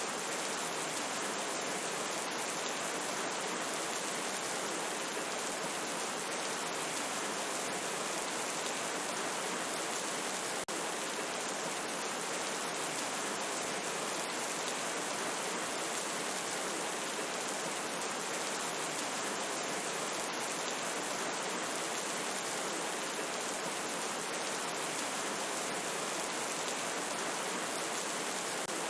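Steady, continuous rain, an even hiss of falling drops, with one split-second dip in level about ten seconds in.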